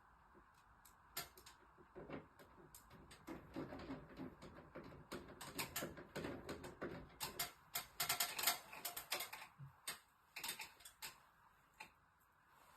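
Irregular sharp clicks and taps of hands working on an air conditioner's indoor unit during a control-board replacement, coming thickest and loudest a few seconds in before thinning out near the end, over a faint steady hum.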